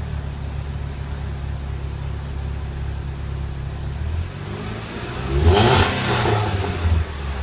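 2008 Pontiac Solstice 2.4-litre four-cylinder engine running through its stock exhaust: a steady low idle, then a short rev about five and a half seconds in that rises and drops back, with a brief second blip just after.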